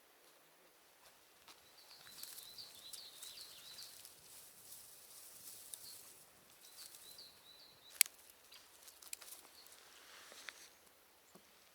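A small bird calling faintly in two quick runs of short chirps, over a soft rustle. A single sharp click about eight seconds in is the loudest sound.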